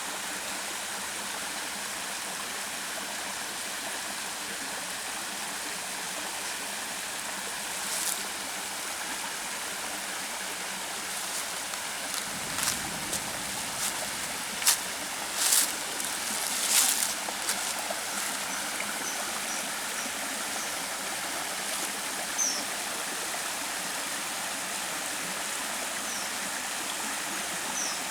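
Mountain valley stream running steadily over rocks, an even rush of water, with a few brief sharp sounds in the middle and short high chirps near the end.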